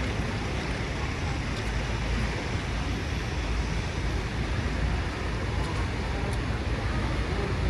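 Steady city street noise of road traffic, a continuous low rumble with an even hiss over it and no single event standing out.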